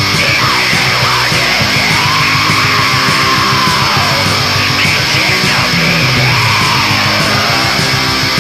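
Heavy metal music, loud and dense, with distorted electric guitars.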